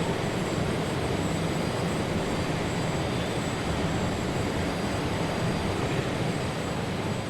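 Steady engine noise with a low rumble under a wide hiss, played from a vinyl sound-effects record.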